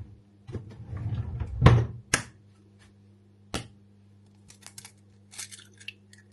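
Kitchen food-preparation handling sounds: a rough scraping stretch with a few sharp clicks of things knocked against a bowl or counter, then faint light rustles, over a steady low hum.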